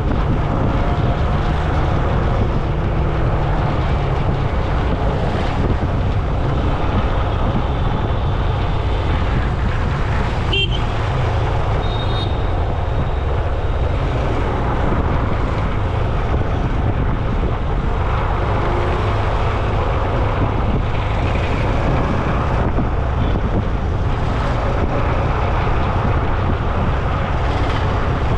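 Steady road noise heard from a moving ride: a constant low rumble of wind on the camera's microphone mixed with traffic, with a single sharp click about ten seconds in.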